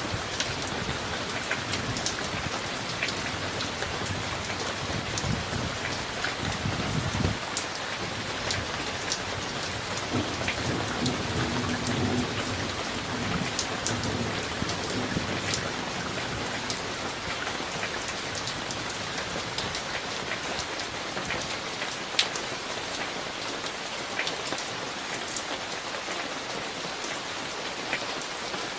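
Steady rain from a summer thunderstorm, with single drops ticking sharply close by. Low rumbles of thunder roll through the first half, one ending about seven seconds in and another a few seconds later.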